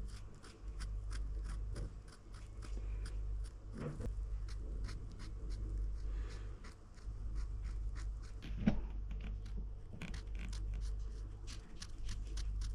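Many short scratching and scraping strokes on a wooden dresser surface as the bore holes are filled and blended in, over a steady low hum.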